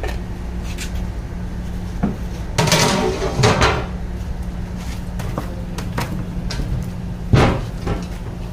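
A few knocks and clatters of metal cookware being handled: a short clatter about two seconds in, and a sharp knock near the end. Under them runs a steady low hum.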